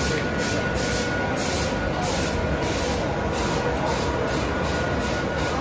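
Mumbai suburban local electric train at the platform, giving a steady hum with a faint high whine.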